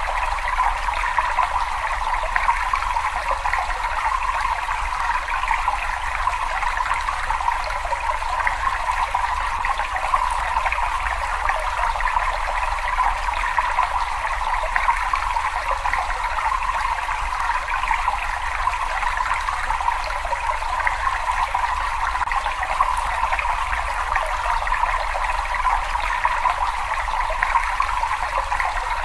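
Water running steadily in a continuous trickle and splash, with no change in level or rhythm.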